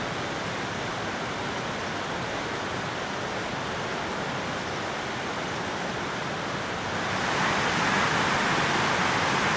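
Steady rush of falling water from the Orkhon Waterfall, growing louder and brighter about seven seconds in.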